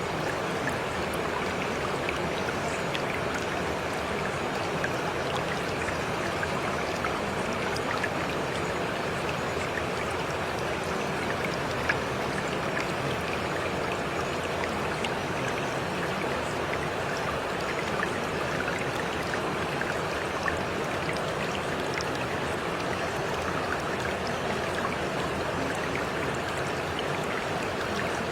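Steady rain: an even hiss with scattered small drop ticks, the masking track of a subliminal recording.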